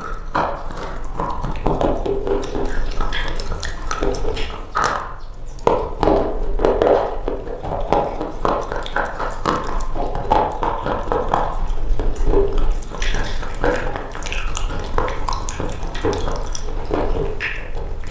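Dried-out bar soap being cut and crushed, giving a steady run of dense crunching and crackling with many sharp snaps.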